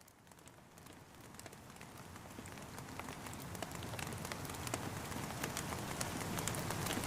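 Steady rain with many separate drops tapping, fading in gradually from near silence to a steady patter.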